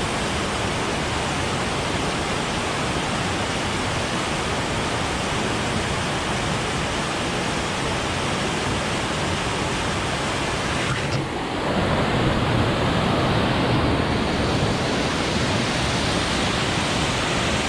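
Waterfall rushing: a loud, steady noise of falling water. About eleven seconds in it dips briefly, then carries on slightly louder and heavier in the low end.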